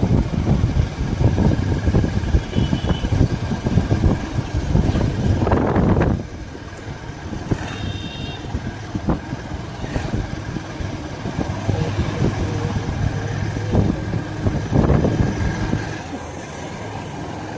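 Motorcycle running along the road, its engine mixed with heavy road and wind rumble. The rumble drops sharply about six seconds in and carries on steadier and quieter.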